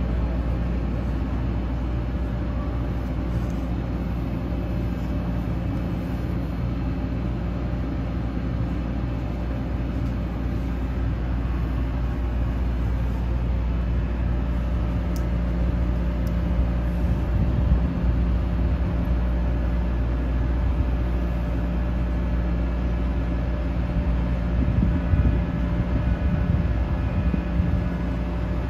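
Steady low hum and rumble inside a high-speed train carriage, with a few slight swells in level.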